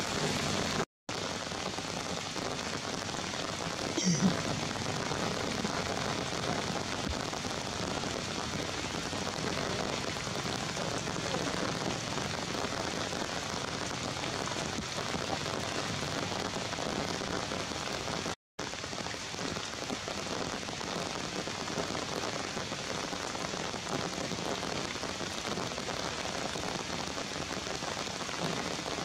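Steady rain falling, an even hiss throughout, with one brief louder sound about four seconds in. The sound cuts out for an instant twice.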